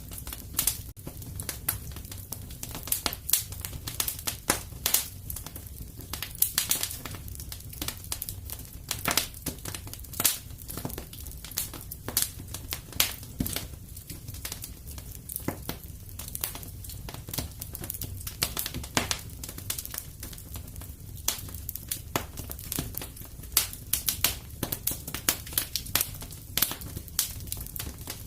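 Wood fire crackling in a fireplace: irregular sharp pops and snaps over a steady low rumble, the pops coming thicker near the end.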